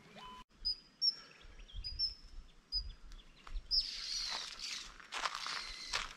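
Small birds chirping in the woodland: a series of short, high chirps. From about four seconds in, a louder rustling, crunching noise takes over.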